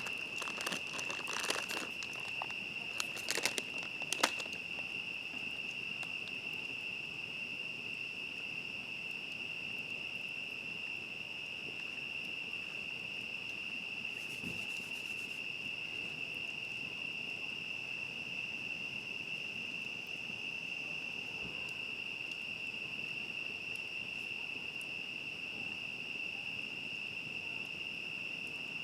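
Steady chorus of crickets, one continuous high trill, with a run of sharp clicks and crackles in the first four seconds.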